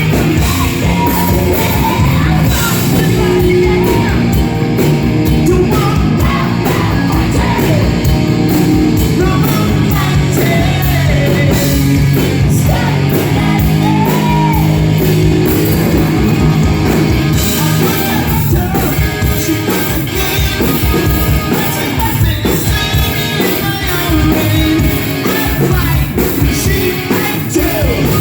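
Hard rock band playing live with a singer: distorted electric guitars, bass and pounding drums under the vocal line.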